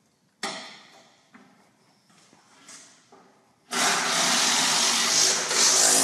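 A sharp metal clank that rings briefly, a few light tool clicks, then a power tool starts up loudly about two-thirds of the way in and runs steadily to the end.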